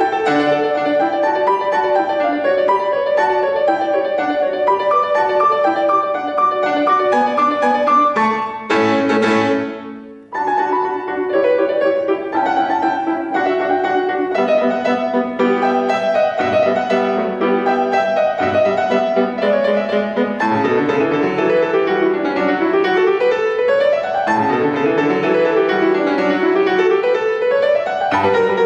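Solo acoustic piano playing classical music, with running notes and chords. About eight and a half seconds in, a chord is struck and left to fade. After a short break the playing resumes, with rising broken-chord figures toward the end.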